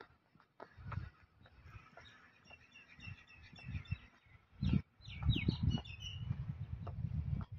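Birds chirping: a quick run of short high chirps a couple of seconds in, then a few falling chirps about five seconds in. Over them are low thumps and rumble from the phone being carried along while walking, loudest in the second half.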